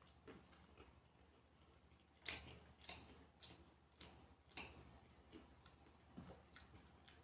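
Faint chewing with several short, crisp crunches, clustered in the middle.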